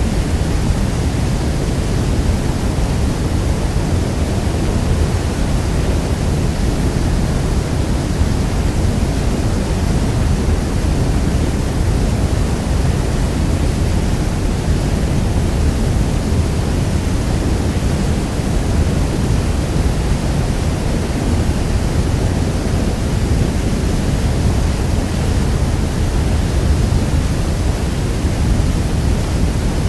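Niagara Falls: the steady roar of heavy water falling, a deep, even rush with no breaks.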